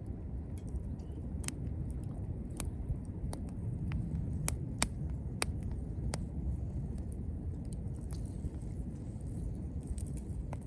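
Wood fire crackling: irregular sharp snaps and pops, one or two a second, over a steady low rumble.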